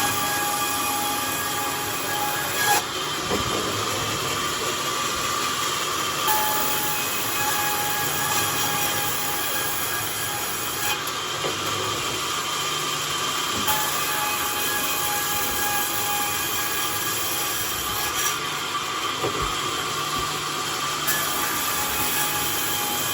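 Sawmill blade running steadily through a charred bayur log, a continuous high-pitched machine sound with a few small knocks along the way.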